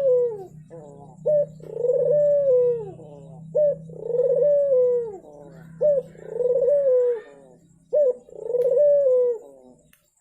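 Puter dove (turtle dove) cooing: each phrase a short clipped note followed by a long arched coo, repeated four times about every two seconds. It is a lure call, played to coax a puter that has stopped cooing into calling. A steady low hum runs under the calls.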